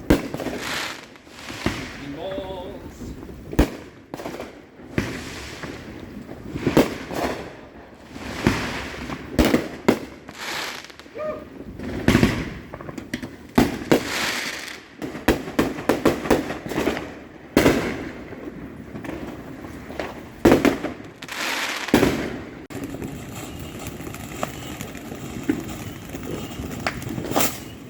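Fireworks and firecrackers going off around a neighbourhood: an irregular string of sharp bangs and pops, several a second at times, with a short ringing after the louder ones.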